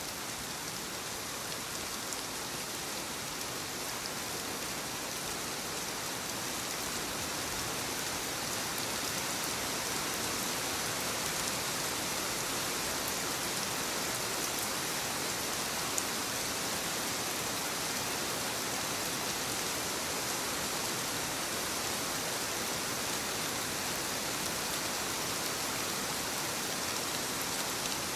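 Soft rain falling steadily on leaves, an even hiss with faint drop ticks, growing a little louder over the first ten seconds. One sharper drop ticks about 16 seconds in.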